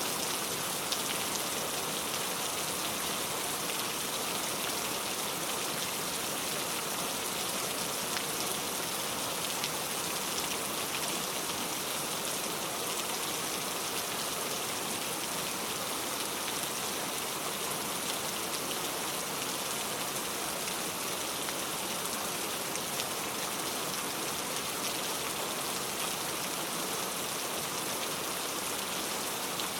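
Steady rain falling, an even hiss that neither builds nor eases.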